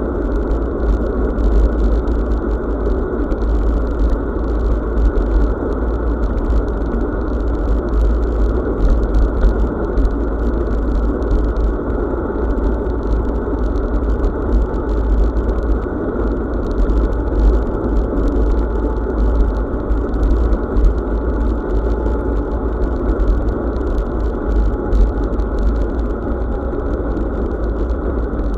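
Wind buffeting a bicycle-mounted action camera's microphone, together with tyre and road rumble from a bicycle riding at speed. Steady and muffled.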